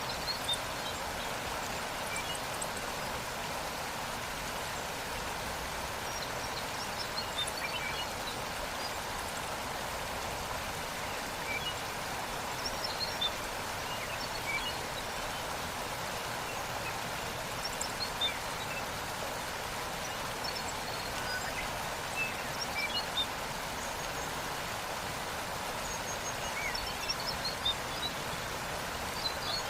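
Steady rushing of a waterfall, with scattered brief bird chirps.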